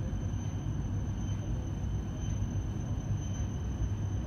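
Steady low rumble inside the cabin of a Hokuriku Shinkansen train rolling slowly into the station platform, with a faint steady high-pitched tone over it.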